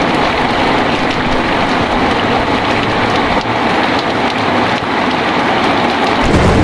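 Heavy rain pouring steadily. A low thunder rumble swells in near the end.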